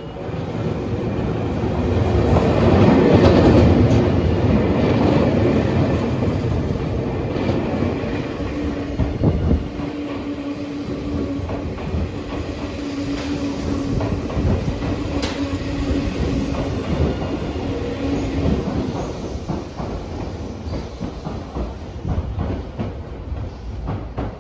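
Tobu Railway electric train running on the line: the rumble swells to its loudest a few seconds in, the wheels click over the rail joints throughout, and a steady tone is held for about ten seconds in the middle.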